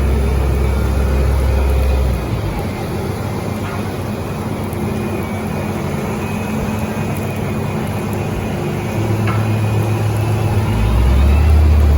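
Heavy diesel engines of road-resurfacing machinery (dump trucks and road rollers) running. A loud low engine hum drops away about two seconds in, leaving a lower rumble, and a heavy engine comes up loud again near the end.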